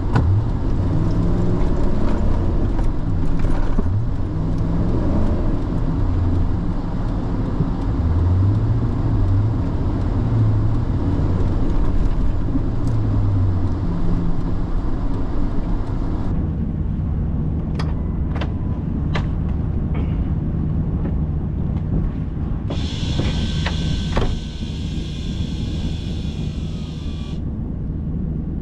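A vehicle engine revving up and down over and over, as when rocking a car stuck in snow, then settling to a steady idle with a few sharp clicks. Near the end, an electric winch whirs for about four seconds.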